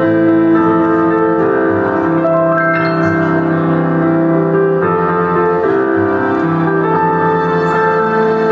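Piano music: a slow cover played in held, sustained notes and chords that change about once a second.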